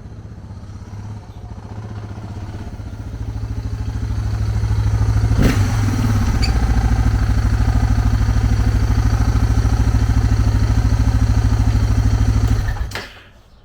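Suzuki DR650's single-cylinder four-stroke engine running after a carburetor rebuild, growing louder over the first few seconds and then holding a steady, even beat. There is a single sharp knock about five and a half seconds in, and the engine sound stops abruptly near the end.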